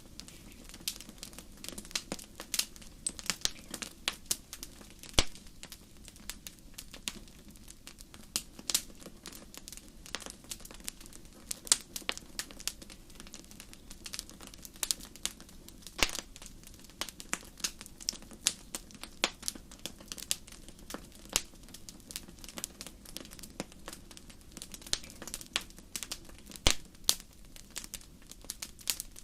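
Wood fire burning in a fireplace, crackling with irregular sharp pops, often several a second, over a faint steady low rumble.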